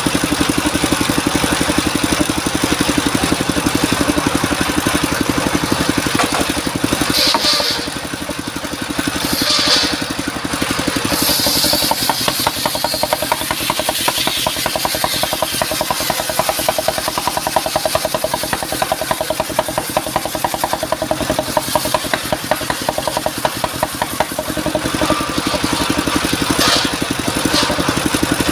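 Engine of a portable circular-saw sawmill running steadily, its pulse even throughout, with a short drop in loudness about eight seconds in and a few brief hissing sounds around then.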